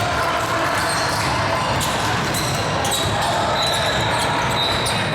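Live basketball game sounds: a ball dribbling and bouncing on the court amid players' and spectators' voices, with scattered short high squeaks.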